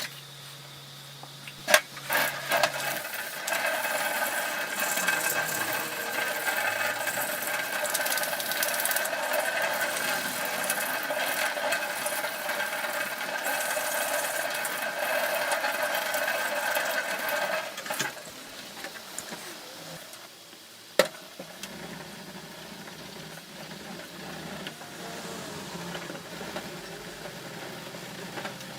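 A small electric motor runs steadily at constant speed for about fifteen seconds, then stops. A single sharp click follows a few seconds later.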